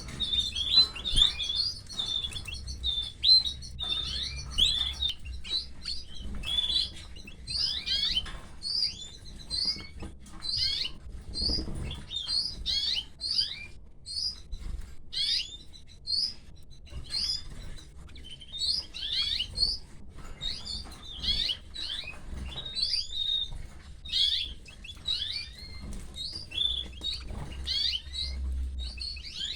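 Canary chicks cheeping, with rapid, high, short chirps repeating several times a second without a break, typical of nestlings begging as the female feeds them.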